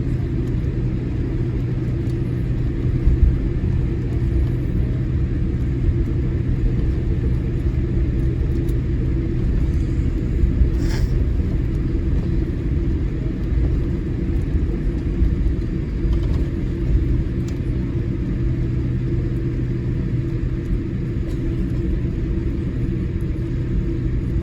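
Steady low rumble and hum of a Boeing 787-8 Dreamliner's cabin as the airliner taxis to the gate after landing. A brief click sounds about eleven seconds in.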